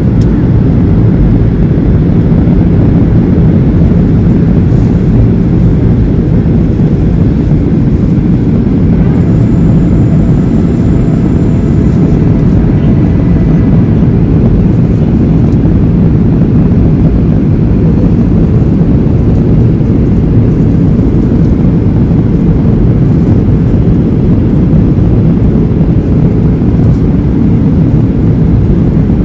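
Steady low roar of a Boeing 737-800's CFM56 jet engines and rushing air, heard inside the passenger cabin on approach to landing.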